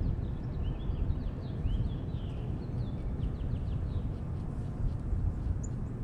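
Small songbirds chirping: many short, quick falling notes, thickest in the first few seconds and sparser later. They sound over a steady low rumble of outdoor background noise, which is the loudest part.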